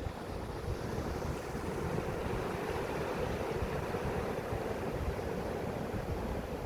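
Sea waves breaking and washing up the beach in a continuous hiss that swells in the middle, with wind buffeting the microphone in a low rumble.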